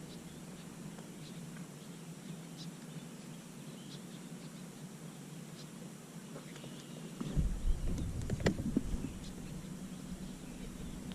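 Outdoor lakeside ambience: a steady low hum with faint, scattered bird chirps. About seven seconds in, a louder low rumble with a few knocks and a sharp click lasts a couple of seconds.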